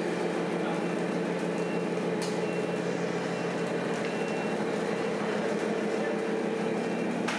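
Steady mechanical hum of a radio-controlled scale model truck running, several even tones held without change, with a brief tick about two seconds in.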